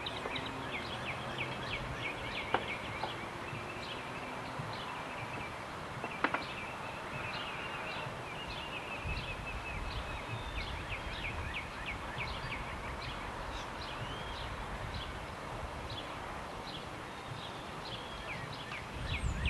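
Many small birds chirping in quick short calls. Two sharp wooden clacks sound, about two and a half and six seconds in, as the wood blocks are handled, and a low rumble comes in about halfway.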